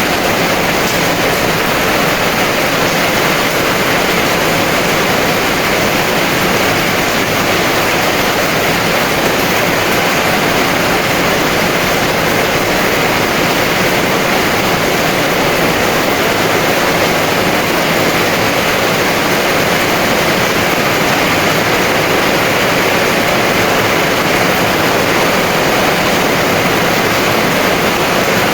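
Heavy rain falling in a steady, dense downpour, a loud even hiss with no single drops standing out.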